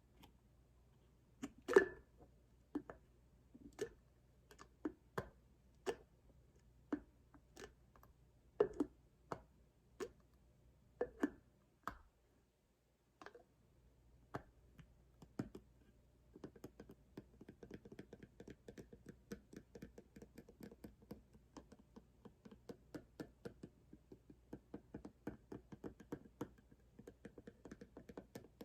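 Fingers tapping on a cardboard box. Single knocks come about once a second, some louder than others. After a short pause, the tapping changes to a quick, steady run of light taps.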